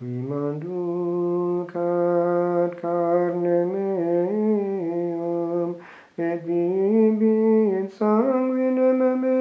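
A single man's voice chanting Gregorian plainchant in long, held notes moving by small steps, with short breaks for breath about six and eight seconds in.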